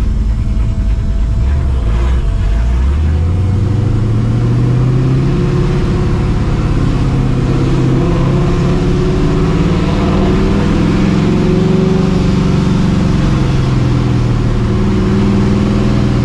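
Cammed, Procharger-supercharged 5.4-litre V8 of a 1999 Mustang GT under way. It runs low at first, then the revs climb from about two seconds in and keep rising through the middle before easing back near the end.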